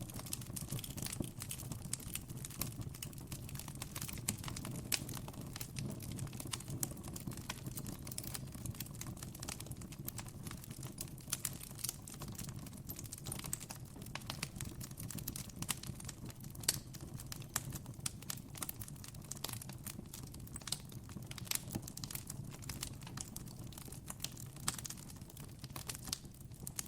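Wood campfire crackling: a steady run of irregular small pops and snaps over a low, even background rumble.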